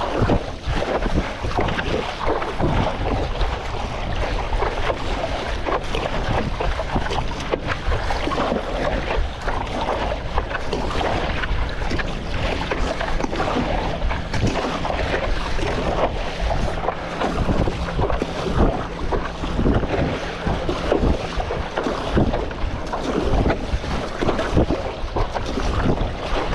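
Strong wind buffeting the microphone over choppy sea water splashing and slapping around a stand-up paddleboard, with no break.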